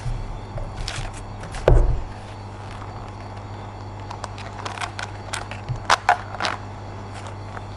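Scattered clicks and taps from handling plastic toy parts and packaging, with one heavier thump about two seconds in and a quick run of clicks near the end, over a steady low hum.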